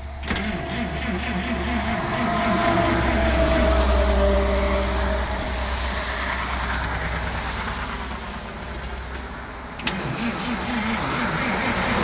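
The 1948 Plymouth Special Deluxe's flathead straight-six running. It comes in suddenly just after the start and swells over a few seconds with a wavering low beat. It eases off, then picks up suddenly again near the end.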